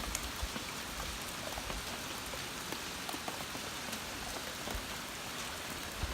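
Heavy rain falling steadily, with a dense patter of drops hitting surfaces close to the microphone.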